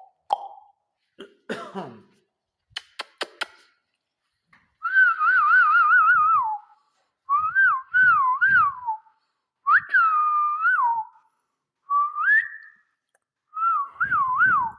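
Parrot whistling a series of five warbling, wavering whistled phrases, each one to two seconds long, after a few sharp clicks near the start.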